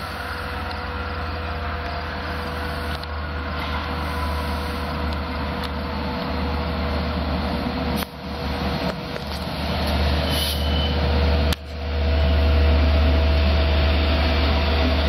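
Diesel locomotive engine of an LIRR DM30AC running with a deep, steady rumble that grows louder as the train draws near.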